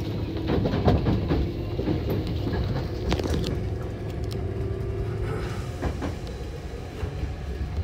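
Hankyu 7000 series electric train running along the line, heard from inside the front car: a steady rumble of wheels on rail under a steady hum, with scattered sharp clicks as the wheels pass over rail joints.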